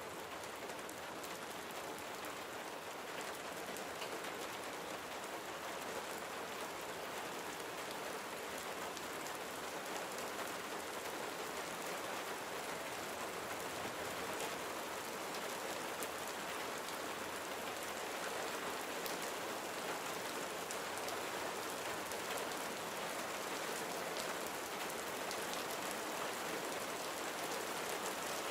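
Steady, gentle rain falling, an even hiss of many small drops with faint scattered pattering.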